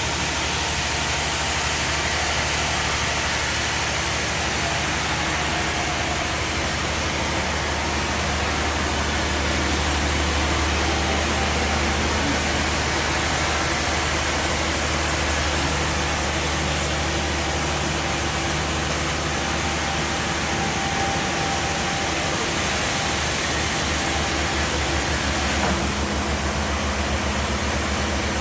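Engine-driven sawmill machinery running steadily, with a deep hum under a continuous wash of noise; the tone shifts slightly near the end.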